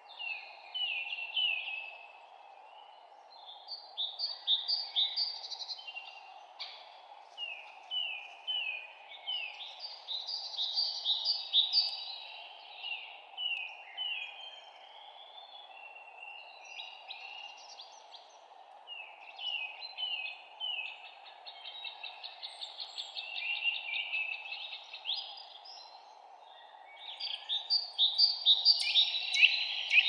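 Songbirds singing in repeated short chirping phrases, with overlapping songs, loudest near the end, over a steady low background hiss.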